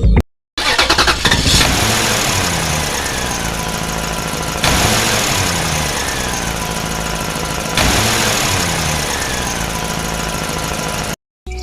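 An engine running, loud and steady, in a recording whose pattern of falling pitch sweeps repeats about every three seconds, as a looped sound effect does. It starts and stops abruptly.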